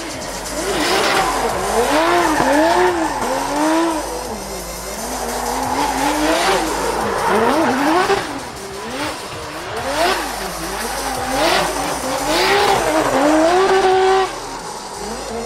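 Drift car engine revving up and down over and over, with tyres squealing as the car slides. The revs cut off sharply near the end.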